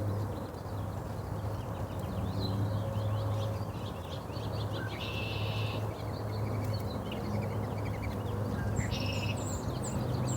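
Several small birds chirping and twittering, with a buzzy chatter about five seconds in and high short chips near the end, over a low steady hum.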